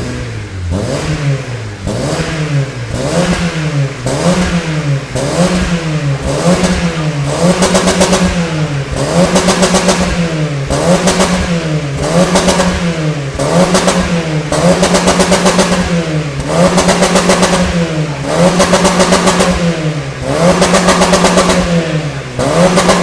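Honda Civic FB's 1.8 i-VTEC inline-four repeatedly free-revved through a new full stainless-steel exhaust with custom downpipe. The pitch climbs and drops about once every one to one and a half seconds, and the later revs are held at the top with a rapid stutter.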